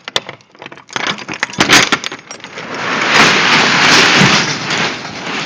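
Clicks and knocks of a padlock and latch being worked, then the box truck's rear roll-up door rolling open with a long noisy rattle that builds a couple of seconds in and fades near the end.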